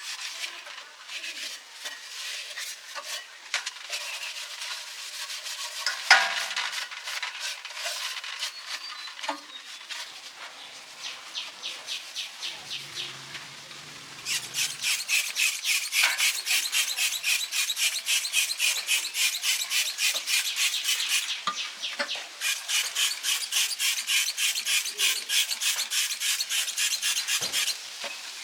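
Scattered clicks and scrapes, then rapid, even back-and-forth scrubbing or rubbing strokes by hand, several a second, in two long runs with a short break between them.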